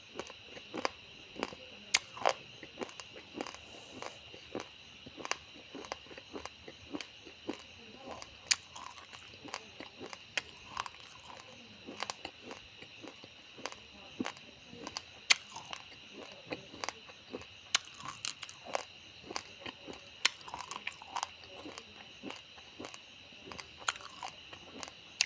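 Raw uncooked rice grains being crunched and chewed, with many sharp, irregular cracks several times a second, over a steady high-pitched background tone.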